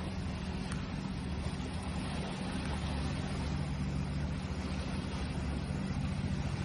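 A steady low engine drone, a constant hum, over an even hiss of water.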